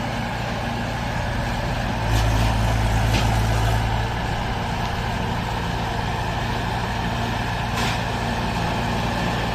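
Diesel tractor engine running steadily, louder for about two seconds when it is given more throttle, with a few short sharp clicks or hisses.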